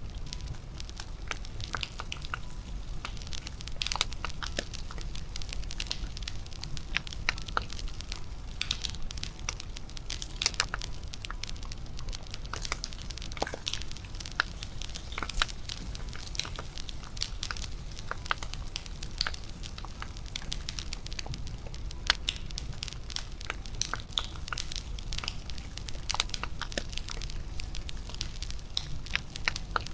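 Wood fire burning, with irregular sharp pops and crackles over a low steady rumble.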